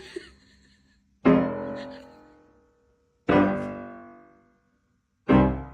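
Slow piano chords, three struck about two seconds apart, each ringing out and fading before the next.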